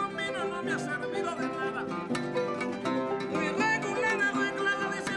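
Son jarocho ensemble of harp, jarana and requinto playing a lively plucked and strummed tune, with a voice singing over it.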